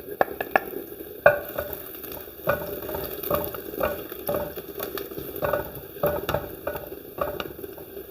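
Chopped garlic frying in hot coconut oil, a steady sizzle, with a utensil repeatedly scraping and knocking against the pan as it is stirred. The garlic is browning.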